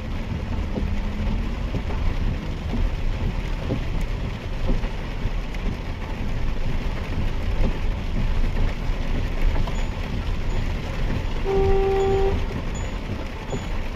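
Mahindra XUV 3XO with its 1.2-litre three-cylinder turbo-petrol engine driving through rain: a steady deep rumble of road, tyres and rain. A short car horn toot sounds near the end.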